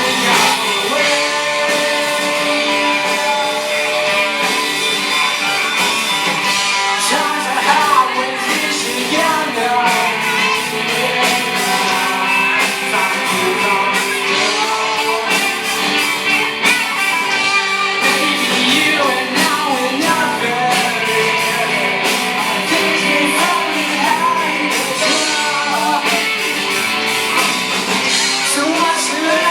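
Rock music with a singer and guitars, playing steadily.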